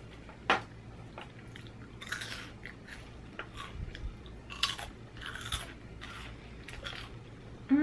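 Crunching and chewing of nachos made with Doritos and Hot Cheetos, topped with queso and sour cream, with several crunchy bites in a row. A single sharp click about half a second in.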